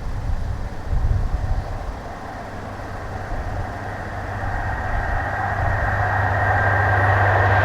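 Diesel train approaching: a steady low engine hum and rising rail noise grow gradually louder.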